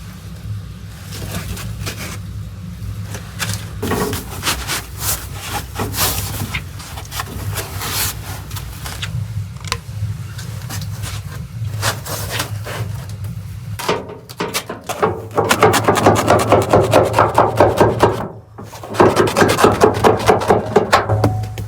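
Hand work with tools: scattered knocks and taps, then quick rhythmic scraping strokes, about five a second, in two runs separated by a short pause near the end, over a steady low hum.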